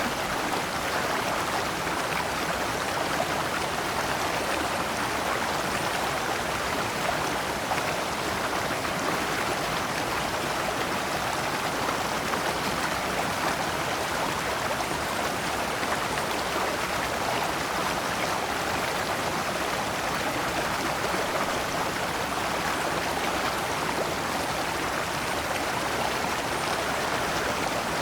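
Shallow rocky stream flowing over stones in small cascades, a steady even rush of water.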